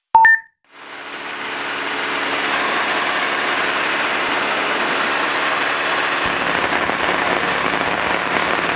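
Steady cabin noise of a Cessna 210D in flight, its piston engine and propeller running evenly, fading in over the first second or two after a short electronic beep.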